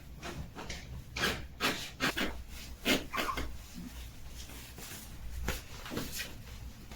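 A bed creaking and squeaking in a run of short, irregular creaks as it is pressed on: the abnormal squeak that the bed is being checked for.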